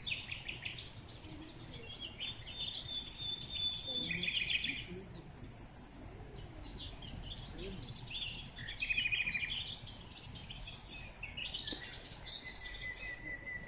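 Several songbirds singing and chirping, with rapid trills about four seconds in and again around nine seconds, and a held high note near the end, over a low steady background rumble.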